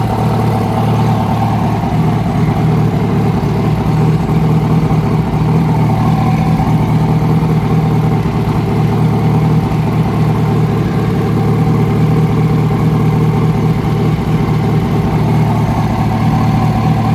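2006 Yamaha R1 inline-four engine idling steadily with a mechanical noise that a new cam chain tensioner did not cure. The owner traced the noise to a failing number-four connecting rod bearing.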